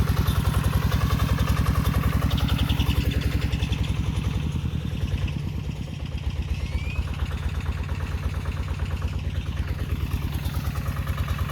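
Mekatech 14 hp walk-behind tractor engine running steadily with a rapid, even pulsing beat while working a bed-forming attachment, easing off briefly about halfway through before picking up again.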